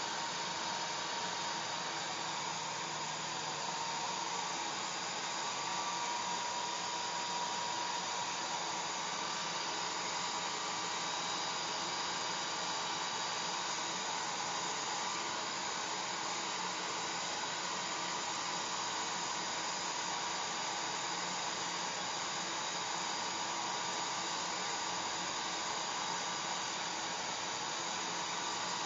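Electric hair dryer running continuously: a steady blowing rush of air with a faint motor whine.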